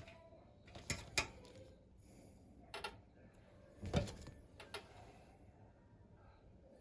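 Five or so sharp clicks and knocks of hard parts being handled during the taking apart of a single-lever kitchen mixer tap, two close together about a second in and the loudest about four seconds in.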